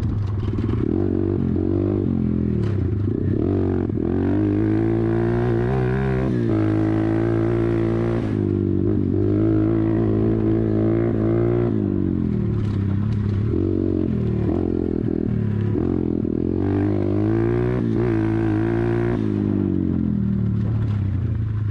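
YCF 125 pit bike's single-cylinder four-stroke engine being ridden hard, its pitch climbing under throttle and dropping off again several times.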